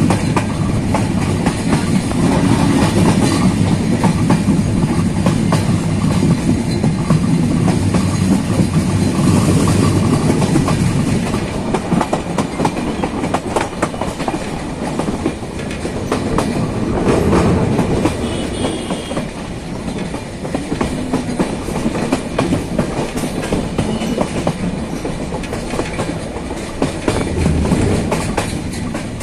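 A train running along the track, heard from inside a carriage at an open window: a steady rumble of wheels on rail, with a clickety-clack of rapid clicks from the rail joints. It is somewhat louder for the first ten seconds or so, then settles a little.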